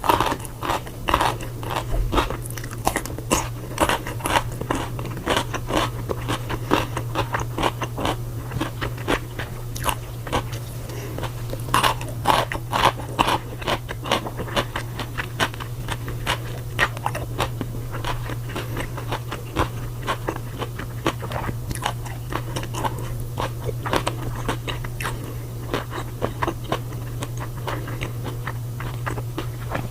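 Close-miked chewing of crunchy food: a long run of crisp crunches and bites with no pause, over a steady low hum.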